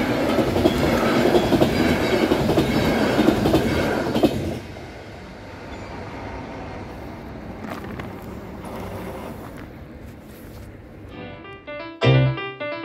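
Passenger train coaches running past over the crossing, a loud rolling rush of wheels on rails that drops away suddenly about four and a half seconds in, leaving a quieter background. Piano-like music comes in near the end.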